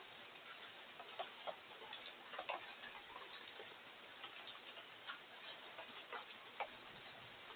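Water drops falling irregularly as sharp ticks over a faint, steady hiss of light rain.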